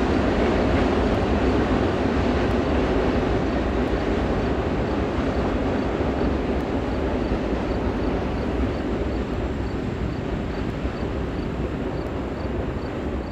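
A train rolling by as a steady rushing rumble that slowly fades, with a faint high tick repeating about three times a second.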